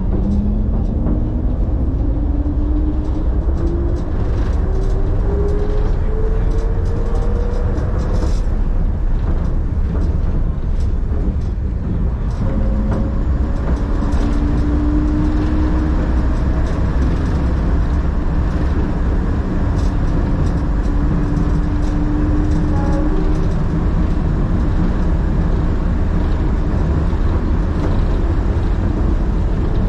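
Train running with a steady low rumble. A whine rises in pitch over the first several seconds, and a steadier whine holds for a stretch in the middle.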